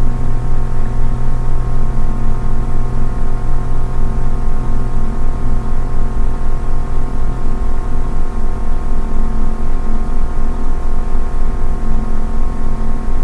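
A steady drone made of several held tones over a deep low rumble, swelling slightly in loudness throughout.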